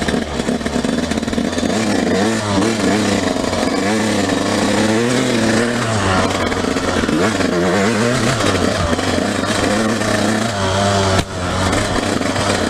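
Dirt bike engine running under throttle, its revs rising and falling again and again as it is ridden, with a brief sudden drop in sound about eleven seconds in.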